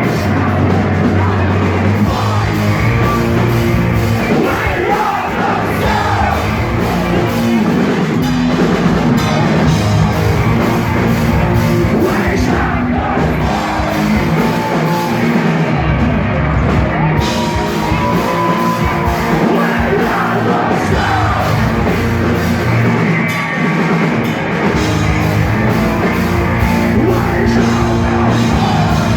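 Post-hardcore band playing live at full volume: loud rock music with a drum kit and singing.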